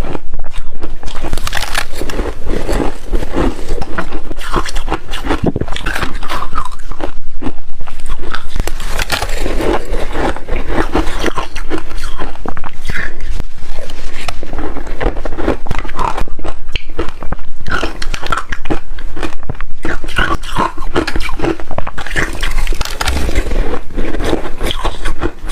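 A person biting and chewing hard refrozen ice close to the microphone: loud, dense crunching and cracking that goes on almost without a break.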